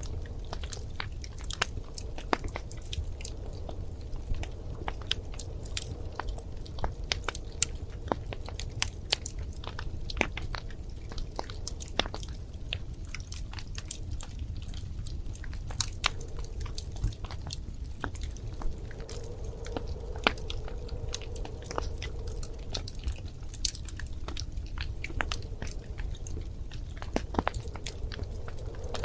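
Wood fire crackling in a fireplace: many sharp irregular pops and snaps over a steady low rumble of the flames.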